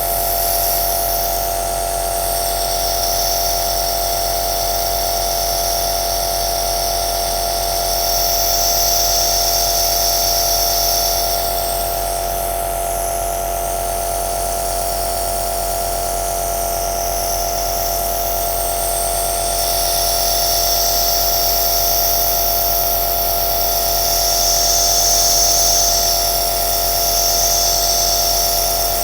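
Home compressor nebulizer (aerosol inhaler) running steadily: a constant motor hum under a high hiss of air and mist that swells and eases every several seconds.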